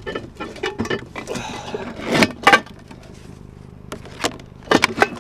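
Knocks and clattering from salvaged junk being handled, with two loud knocks about two seconds in and more near the end, over a steady low hum.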